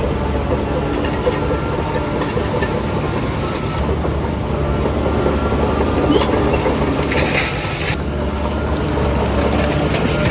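Shantui DH17C3 bulldozer's diesel engine running steadily under load, with scattered clanks from the machine at work. A short rushing burst of noise comes about seven seconds in.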